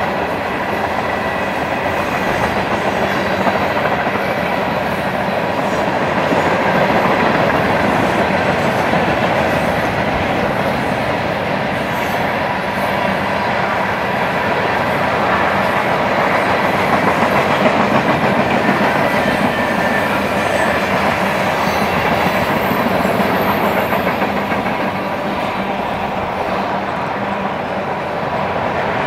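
Mixed freight train rolling past at steady speed: the steel wheels of covered hoppers, boxcars, tank cars and autorack cars running on the rails in a loud, steady rumble and rattle, with a faint steady high tone over it.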